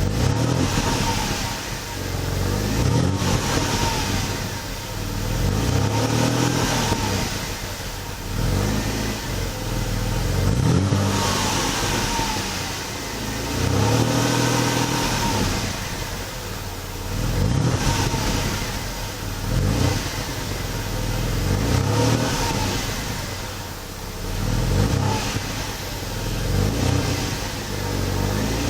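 Mercedes W124 260E's 2.6-litre straight-six, heard through a Subsonic F230 rear muffler and a single 60 mm tailpipe, revved repeatedly in free throttle blips. The pitch rises and falls back toward idle about every two to three seconds.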